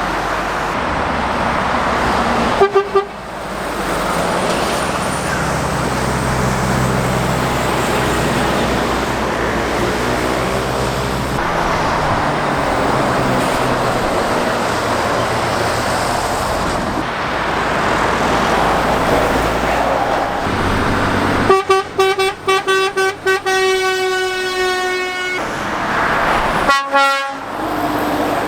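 Heavy road traffic passing close by, with lorry engine and tyre noise. A vehicle horn gives a short toot about three seconds in. Near the end a horn sounds as a run of quick toots, then a held blast of several seconds, followed by one more brief toot.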